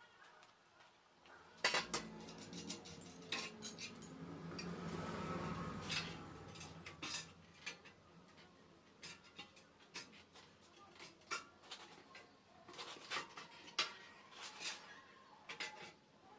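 Irregular metallic clinking and clattering: a string of sharp knocks of hard objects being handled, thickest a few seconds in.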